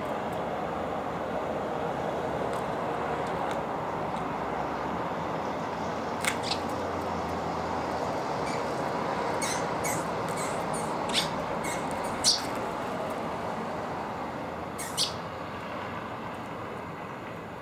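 Short, high chirps of small songbirds at a bird feeder, a few single calls and a cluster in the middle, over a steady background of outdoor street noise.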